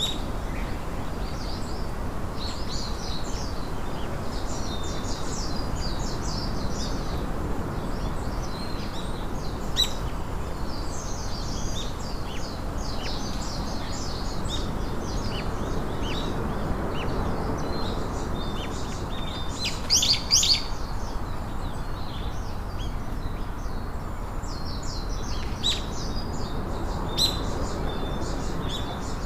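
Small birds chirping and singing, many short high calls scattered throughout, with a loud cluster about two-thirds of the way through, over a steady low background noise.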